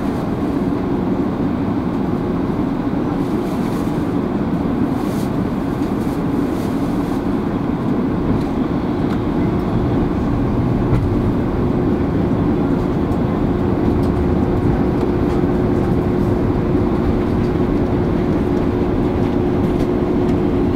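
Steady cabin noise inside an Airbus A330-300 airliner in flight: an even rumble of engines and rushing air, with a steady hum running through it that becomes clearer in the second half.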